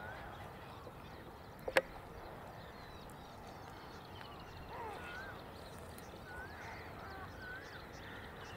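Wetland birds calling: short chirping calls repeated every second or so, with a sharp click about two seconds in.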